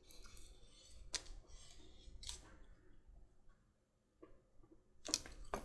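A few faint scraping strokes about a second apart, from a leather edge creaser drawn along the edge of a leather strap. Near the end come sharper clicks and a clatter of metal tools being handled.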